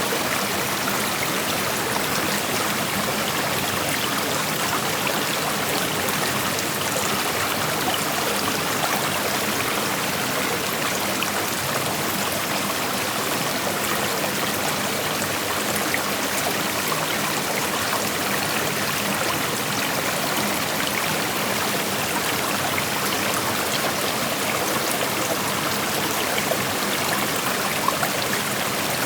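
Creek water flowing and rushing steadily over rocks: an even, unbroken rush with small splashes and trickles through it.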